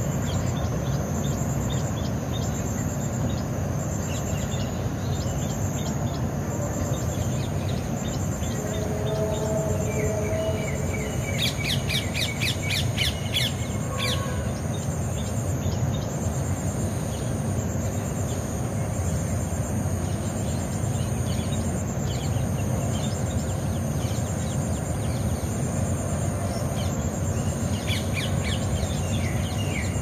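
Birds calling over a steady low rumble of outdoor background noise: a couple of lower calls about nine seconds in, then a quick run of high chirps a few seconds later, and another run near the end.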